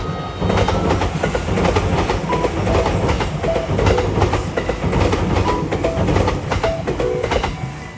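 A train running on rails, its wheels clicking and clacking rhythmically over the rail joints, with a steady rumble underneath.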